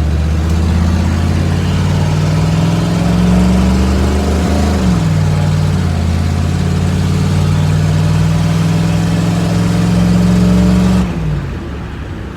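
Truck engine accelerating under load, its pitch climbing steadily, dropping sharply about five seconds in as it shifts up, then climbing again before easing off near the end.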